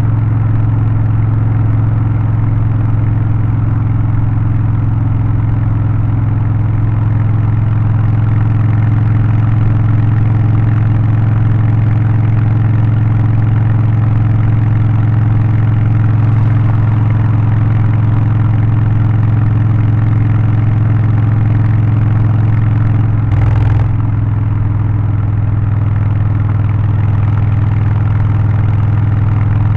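Harley-Davidson Low Rider ST's Milwaukee-Eight 117 V-twin, in Stage 1 tune with aftermarket exhaust, air filter and remap, running at steady revs with a constant deep note. A brief burst of noise comes about 23 seconds in, after which the engine note shifts slightly.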